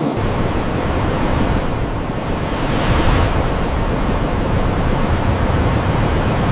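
Steady, loud rush of moving water, like surf, with no break.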